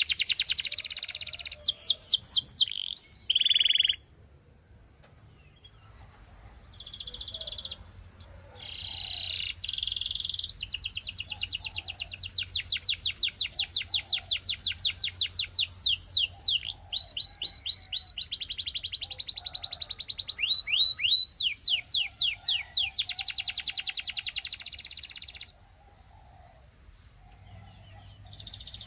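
A canary singing in long phrases of fast, evenly repeated trills and rolls of quick high notes that sweep up and down. The song breaks off for short pauses about four seconds in and again near the end.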